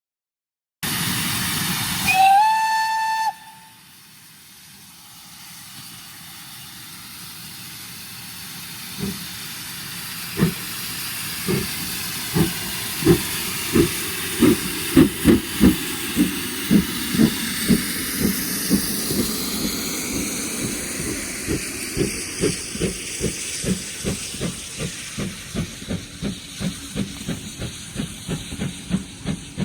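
GWR small prairie tank engine 5541 blowing its whistle briefly over loud hissing steam, then starting away: a rising hiss and steam exhaust beats that begin slow and steadily quicken as the locomotive picks up speed.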